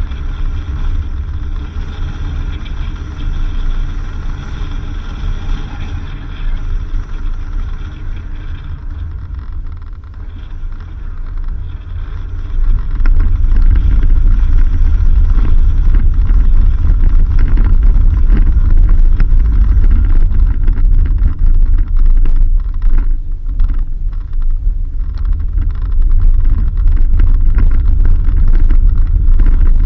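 A vehicle driving along a dirt road: a steady low rumble of the engine and tyres, with some jostling. It gets louder about twelve seconds in.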